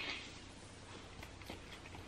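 Close-miked chewing of a crisp, cheesy birria quesadilla: soft wet mouth sounds with a few small clicks near the end.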